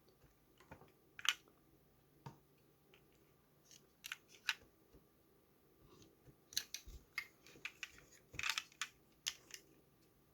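Irregular sharp clicks and snaps of small plastic parts being handled, a few single ones at first, then a quicker cluster about two thirds of the way in.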